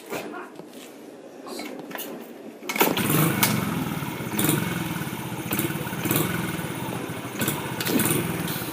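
Small 50cc dirt bike engine catching and starting about three seconds in, after a few light knocks, then running with the throttle blipped up and down several times.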